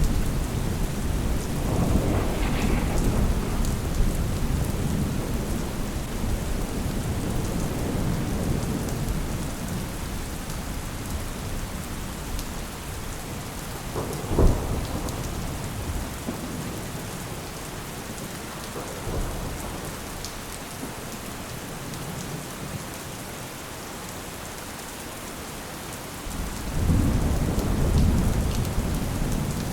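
Steady rain with rolling thunder. A deep rumble slowly fades over the first twenty-odd seconds, a sharp crack comes about halfway through, and a new rumble builds near the end.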